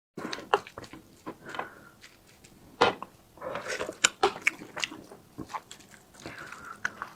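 Close-miked eating: chewing with many short wet smacks and clicks of the mouth, and a few louder bites.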